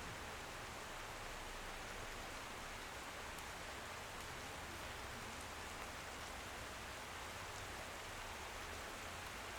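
Steady, even rain, with a few faint drop ticks standing out.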